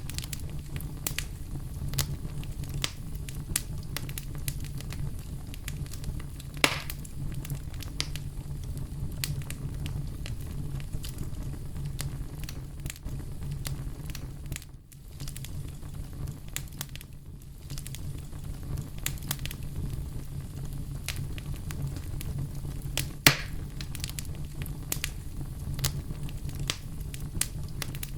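Wood fire crackling: a steady low rumble of flames under a constant scatter of small pops, with two louder snaps, one about a quarter of the way in and one near the end.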